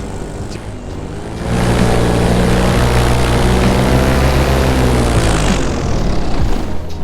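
Bulldog Atom 80 paramotor's two-stroke engine and propeller running at part throttle, then opened up about a second and a half in, the note climbing and then easing off, and throttled back down near the end.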